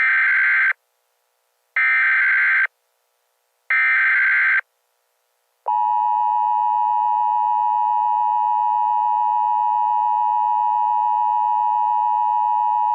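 Emergency Alert System SAME header: three bursts of digital data tones, each about a second long and spaced about two seconds apart. About six seconds in, a steady EAS attention tone starts, the two-tone signal that announces an emergency alert is beginning.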